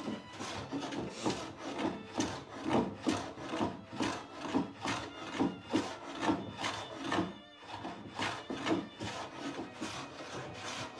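Hand plane taking quick, repeated strokes over a wooden door board, its sole waxed so it glides, about two scraping passes a second with a short pause a little past the middle.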